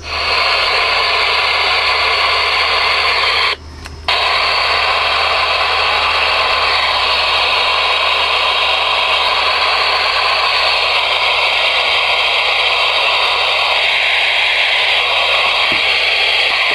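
Ranger RCI-69FFB4 ten-meter radio's receiver giving out steady, loud static hiss through its speaker. It cuts out for about half a second a few seconds in, then resumes.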